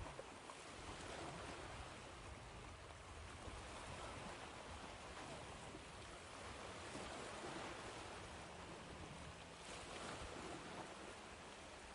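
Ocean surf washing on a shore: a steady, soft rush of breaking waves that swells and eases every few seconds.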